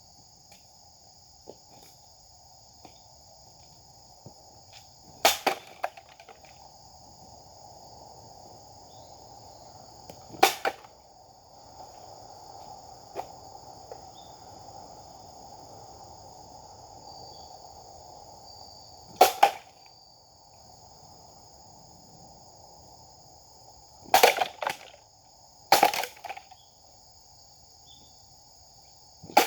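Japanese sword strokes: about six sharp swishes or cuts, spaced several seconds apart, two of them close together near the end. They sound over a steady high insect drone.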